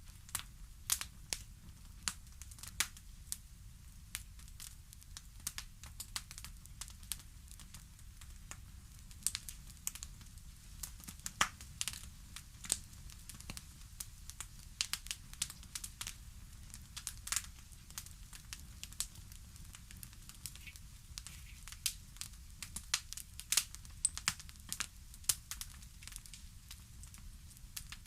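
Fire crackling: irregular sharp pops and snaps, some louder than others, over a low steady rumble.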